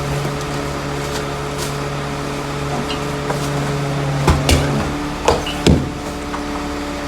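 Rear-loader garbage truck running steadily, with a change in the hum about five seconds in and several sharp knocks and clanks in the second half.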